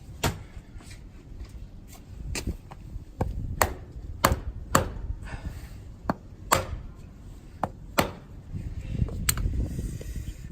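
Irregular sharp taps and knocks, about ten in all and unevenly spaced, from tools and parts being handled while working on a motorcycle engine with its cover bolts removed.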